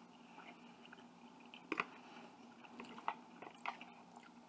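Faint close-up chewing and wet mouth sounds of a person eating chicken and broccoli with rice, with scattered smacks and a sharp double click about two seconds in.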